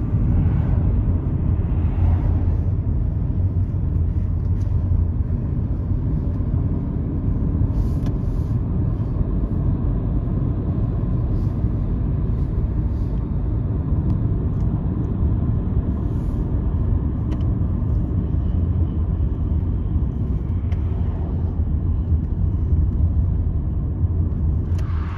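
A train running, heard as a steady low rumble with faint engine tones.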